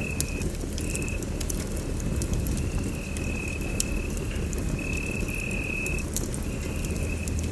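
Wood fire burning in a fireplace: a steady low rumble of flames with scattered sharp crackles and pops. A high, thin whistling tone comes and goes throughout, in stretches of about half a second.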